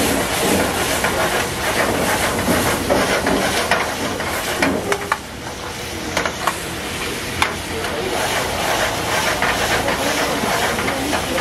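Paneer pepper fry sizzling in a steel pan over a gas burner flame, stirred with a metal ladle that gives several sharp clinks against the pan.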